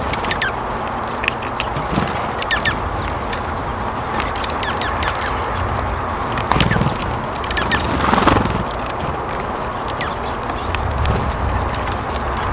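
Birds chirping and calling in short, scattered notes over a steady outdoor hiss and low rumble.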